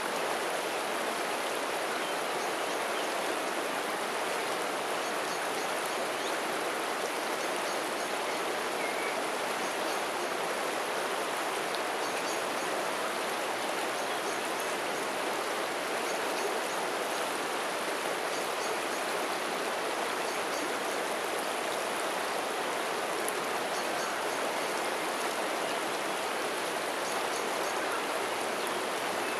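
River water flowing in a steady rush. Faint high-pitched ticks come in short runs every second or two.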